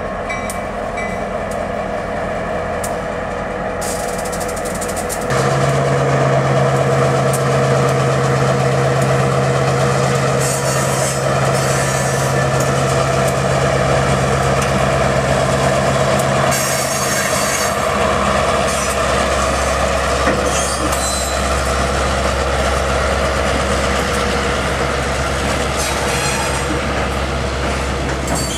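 Norfolk Southern diesel locomotive passing close by at a road crossing with its engine running, getting louder about five seconds in, then loaded freight cars rolling past with a steady low rumble.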